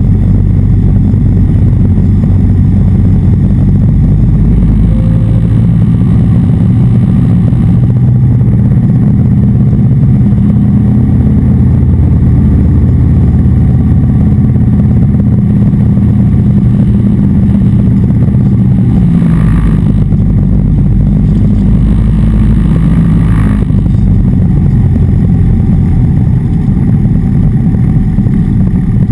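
Cessna 177RG Cardinal's engine and propeller droning steadily, heard inside the cockpit; the engine note shifts slightly about eight seconds in and again near twenty seconds in.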